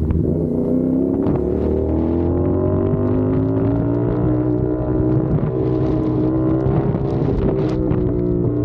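CFMOTO 450SR parallel-twin engine running under way, its pitch rising gradually over the first few seconds as the bike accelerates, then holding at a steady cruise.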